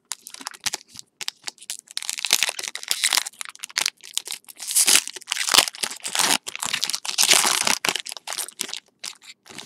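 Plastic-foil trading-card pack wrapper being torn open and crinkled, a dense irregular crackling that is loudest in the middle.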